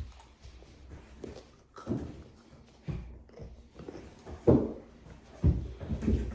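Handling noise with about five scattered thumps and knocks, the loudest about four and a half seconds in and two more close together near the end, with faint rustling between them.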